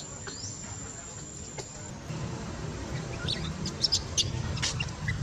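Bird chirps over a low steady rumble: short scattered chirps, most of them past the middle, with a thin high steady tone that stops about two seconds in.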